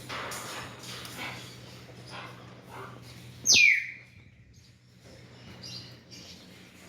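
A macaw giving one loud, short screech about halfway through that falls sharply in pitch, with fainter scratchy noises before and after it and a steady low hum underneath.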